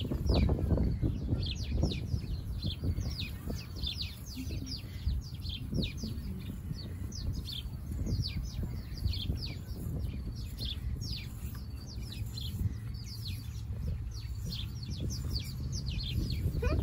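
Small birds chirping: a run of short, high, falling chirps, several a second, over a steady low rumble.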